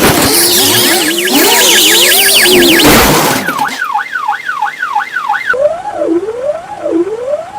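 Police sirens one after another: for about the first three seconds a loud rush of noise with a very fast, high warble; then a yelp sweeping up and down about two and a half times a second; then, from about halfway on, a lower siren rising and falling about one and a half times a second.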